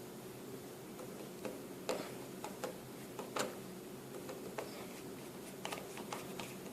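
Scattered small clicks and taps of a screwdriver and tiny screws on a Samsung Galaxy S3's plastic middle frame during reassembly, irregular and light, over a faint steady hum.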